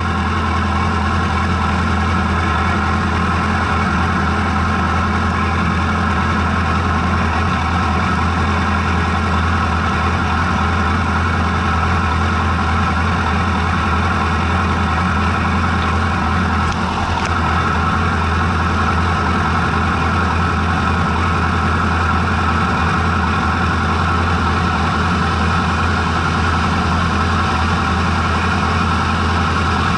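A racing motorcycle's engine idling steadily, its pitch holding level with no revving.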